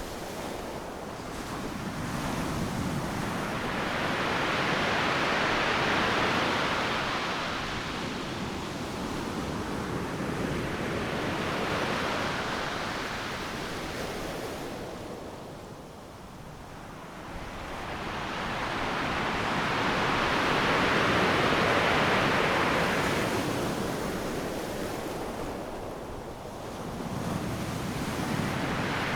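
Ocean surf: waves breaking on a beach, the wash swelling and fading in four long surges, with a quieter lull in the middle.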